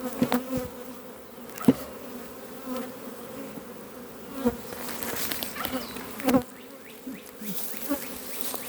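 Swarm of honeybees buzzing steadily around an opened hive that is being split, disturbed by the work. A few sharp knocks break through the hum, the loudest about a second and a half in and again past six seconds.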